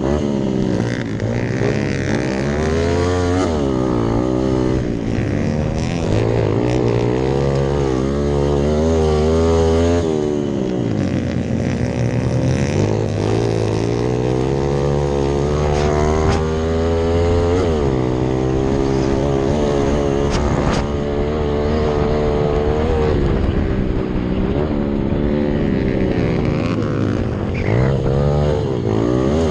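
Rally-built Hero Impulse dirt bike's single-cylinder engine under hard riding, its pitch repeatedly climbing as it is revved and then dropping back at gear changes or off the throttle.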